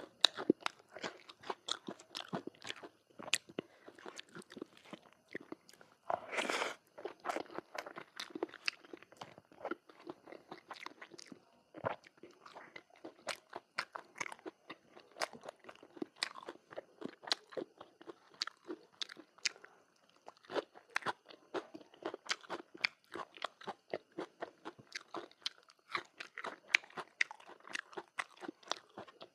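Close-up chewing and crunching of a person eating, a steady run of short, irregular mouth clicks, with one longer noisy burst about six seconds in.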